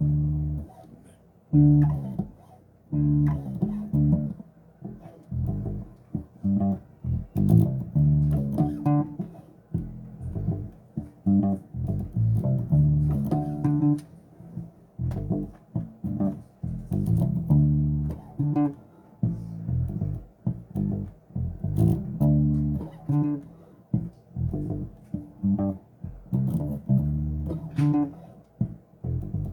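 Bass guitar played solo, a run of plucked notes in short phrases separated by brief gaps, as a line is being practised.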